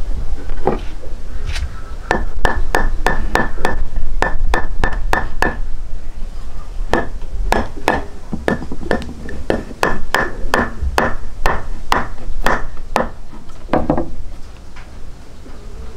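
A rapid series of sharp strikes, about three a second, each with a short ringing tone, over a steady low rumble. The strikes begin about two seconds in, pause briefly near the middle, and stop near the end.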